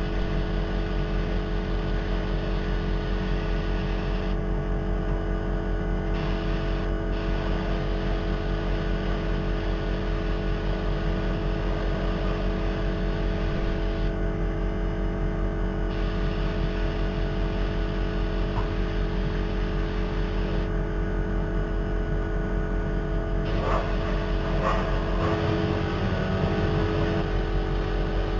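Workshop extractor fans running at full blast with a steady hum, under the hiss of a paint spray gun laying on a top coat; the hiss stops for a couple of seconds several times as the trigger is released, around 4, 14 and 21 seconds in.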